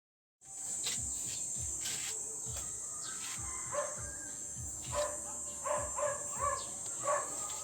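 A steady, high-pitched insect drone, like crickets or cicadas, with a dog barking several times in the background during the second half.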